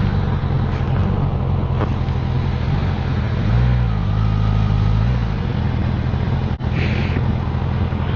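Suzuki GSX-S1000GT motorcycle's inline-four engine running at low road speed, swelling slightly in the middle. The sound cuts out for an instant about two-thirds of the way through.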